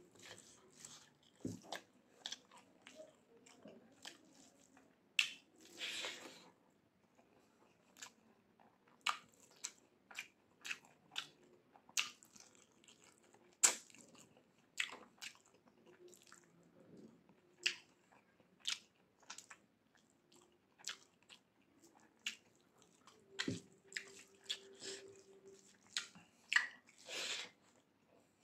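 Close-miked mouth sounds of a person eating rice and mutton curry by hand: irregular wet chewing and lip-smacking clicks, with a couple of longer, noisier sounds about six seconds in and near the end.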